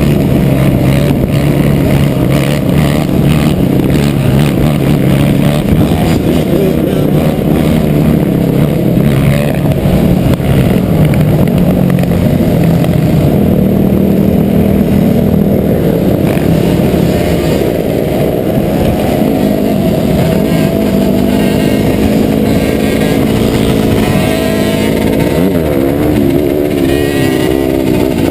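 Dirt bike engine running as it is ridden, loud and steady, its pitch wavering up and down near the end.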